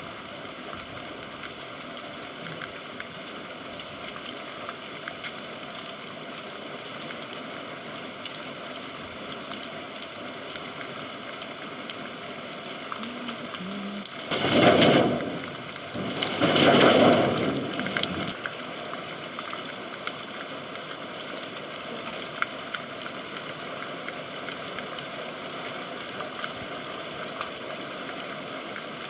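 Steady rain, heard as an even hiss. About halfway through it is interrupted by two louder rushing surges, one brief and one lasting about two seconds.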